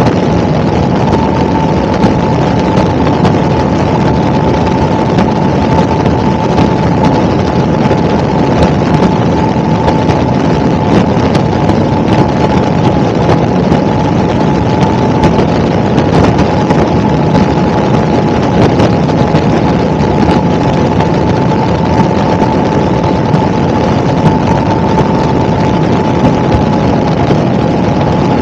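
Helicopter in flight, heard from inside: a loud, steady drone of engine and rotor noise with a constant high whine over it that does not change.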